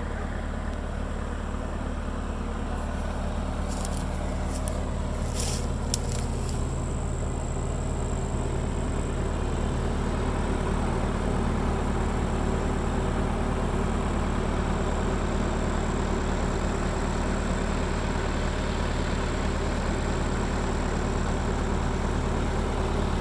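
John Deere 450B crawler's diesel engine running steadily, with a few light metallic clicks a few seconds in.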